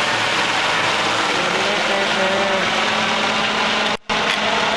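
Helicopter flying nearby, a steady rotor and engine noise, cutting out for a split second near the end.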